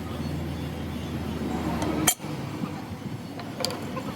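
A few sharp metallic clinks of metal parts or tools being handled, the loudest about halfway through and another briefly ringing near the end, over a steady low hum.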